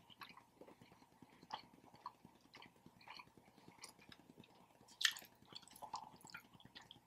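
A person chewing a Subway sub sandwich: faint, irregular wet mouth clicks and smacks, with one sharper, louder click about five seconds in.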